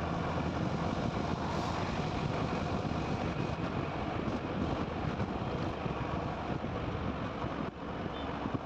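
Motorcycle riding along a highway: a steady rush of engine and road noise, dipping briefly near the end.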